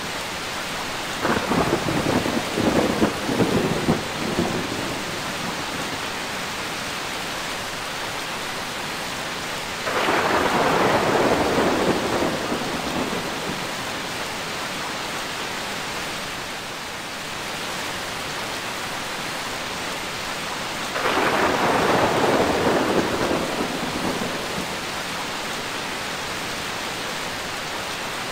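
Steady rain with three rolls of thunder: about a second in, about ten seconds in and about twenty-one seconds in. Each comes in suddenly and lasts two to three seconds over the rain.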